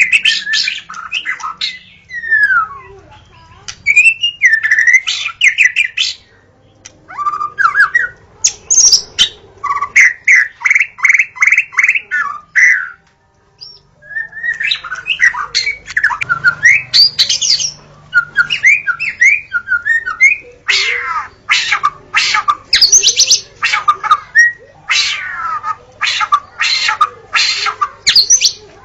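White-rumped shama (murai batu) singing vigorously: varied phrases of gliding whistles and fast runs of repeated notes, with brief pauses between phrases.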